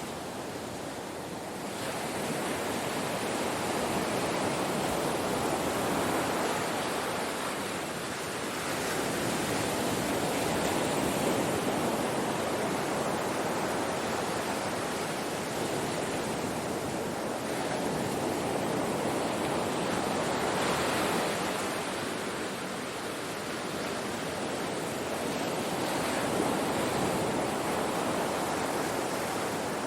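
Ocean surf breaking on a shore: a continuous wash of waves that swells and eases every few seconds, with no single loud crash.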